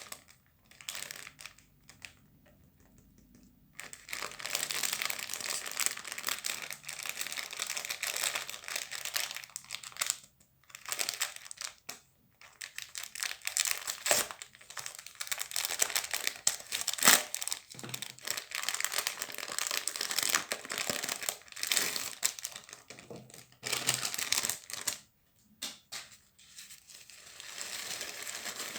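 A shower cap being crumpled and crinkled by hand, giving a dense crunching, crackling noise in spells separated by short pauses. One sharper, louder crack stands out about two-thirds of the way through.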